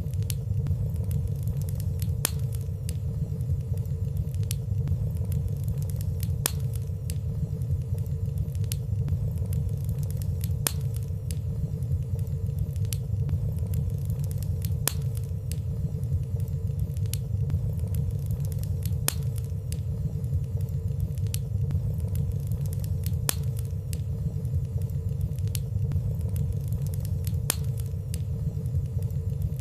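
Wood fire burning in a fireplace: a steady low rumble of flames with frequent light crackles and ticks scattered irregularly throughout, and a faint steady hum underneath.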